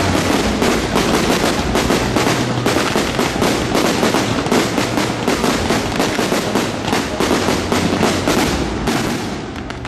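Aerial fireworks bursting in a dense barrage, many sharp bangs and crackles a second, easing off slightly near the end.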